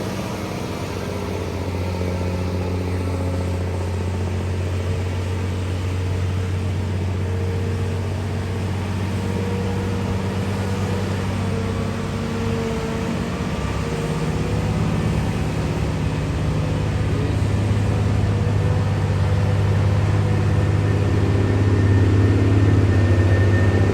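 Truck engine running steadily, a low drone that grows gradually louder over the second half.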